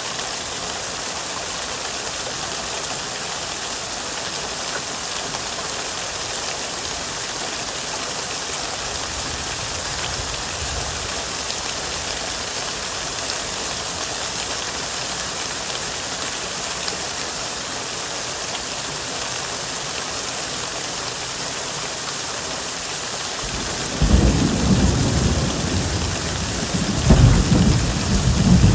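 Steady rain falling, an even hiss. About three-quarters of the way through, thunder sets in with a sudden low rumble that swells again a few seconds later.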